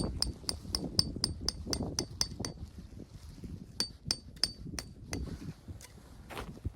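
Light metallic clinking with a short ring on each strike, about four a second, thinning out after about two and a half seconds and stopping about five seconds in, over a low rustle.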